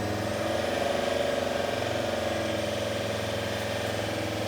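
Volvo D5244T10 five-cylinder 2.4-litre diesel engine running steadily, swelling slightly about a second in and then settling, during a test run of the engine.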